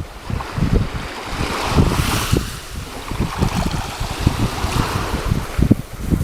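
Wind buffeting the microphone in irregular gusts, over the rush of sea waves swelling twice.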